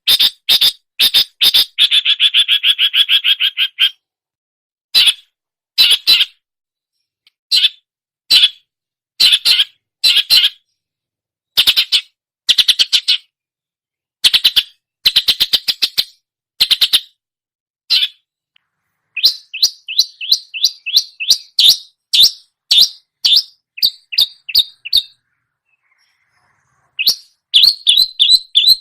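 Long-tailed shrike (cendet) singing a mimicked songbird medley: short phrases of fast, high chirps and trills, broken by brief pauses, with a longer gap a little before the end.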